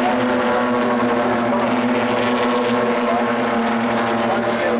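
Super 6 saloon racing car engines running hard, a loud, steady held engine note with several pitches together.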